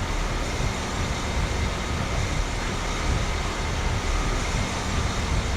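Central air conditioner outdoor condenser unit running, its fan and Emerson Copeland scroll compressor making a steady hum and rush of air.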